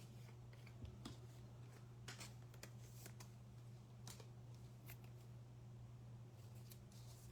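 Faint handling of trading cards: soft flicks and slides at irregular moments as the cards are sorted, over a steady low hum.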